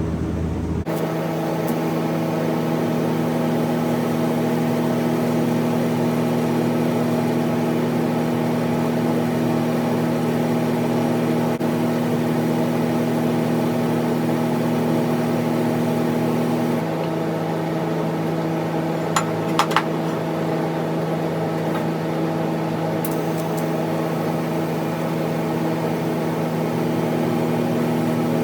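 Electric welding machine running with a steady hum of several fixed tones while a steel bracket is welded after tacking. The hum changes about seventeen seconds in, and a few sharp clicks come a couple of seconds later.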